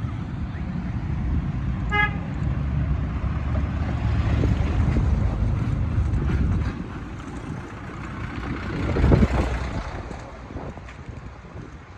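Road traffic: motor vehicles running past with a steady low rumble, a short car horn toot about two seconds in, and one vehicle passing close, loudest about nine seconds in, then fading.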